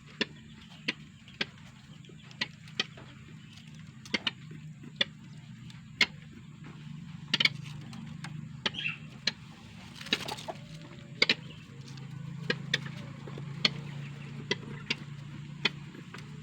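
A tame mandar sawah (rail) making short, sharp clicking ticks at irregular intervals, about one or two a second, over a low steady hum.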